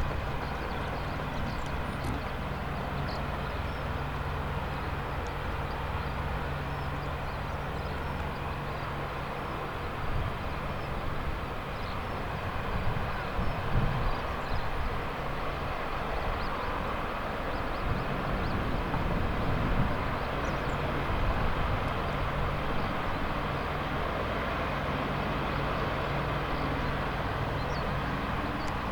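AH-64D Apache helicopters' twin turboshaft engines and rotors running, a steady drone with low, even tones and a broad rushing noise above. The low tones shift and the level rises a little partway through.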